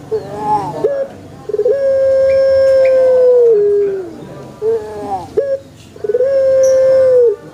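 Puter pelung (domestic turtle dove, Streptopelia risoria) cooing: twice a few short bending notes lead into one long, drawn-out coo held on a single pitch that drops at its end.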